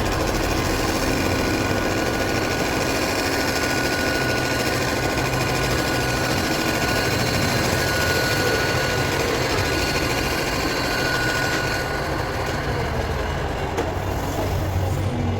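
Heavy machinery running steadily, with a high whine over it that stops about twelve seconds in.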